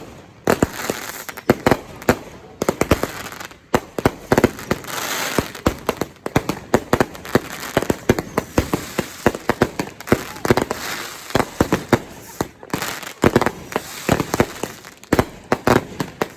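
Fireworks going off in rapid, irregular volleys of sharp bangs and crackles, several per second, with a few brief lulls.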